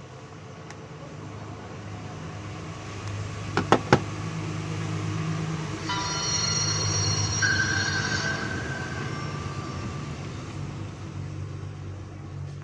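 Low rumble of a passing vehicle that swells and fades, with high whining tones near the middle. Two sharp clicks about four seconds in.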